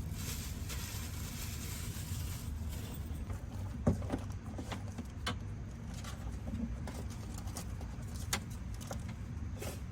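A few sharp clicks and knocks of gear being handled while packing a motorcycle, over a steady low rumble.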